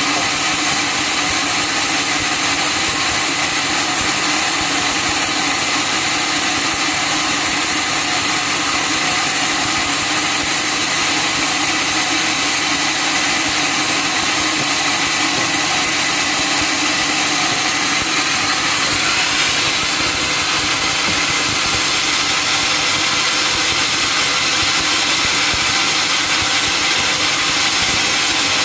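Sawmill machinery running steadily, a loud even noise without pauses, with a faint rising whine about two-thirds of the way through.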